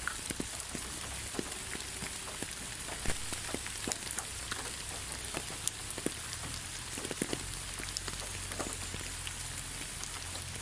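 Rain falling steadily: an even hiss with many separate close drops ticking at irregular moments.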